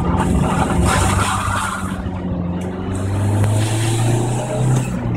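Car engine running while driving, heard from inside the cabin: a steady drone that holds its pitch, breaking off briefly near the end.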